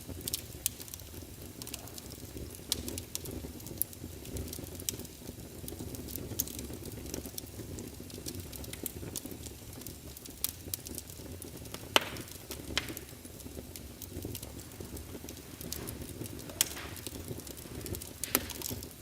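Fireplace crackling: a steady low rumble of burning wood with scattered sharp pops and snaps, the loudest about twelve seconds in.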